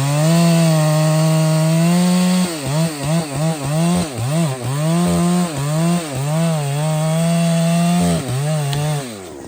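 Large two-stroke chainsaw running at high revs, cutting through wood. The revs dip and recover again and again from about two and a half to five seconds in and once more near the end, then the engine drops away just before the end.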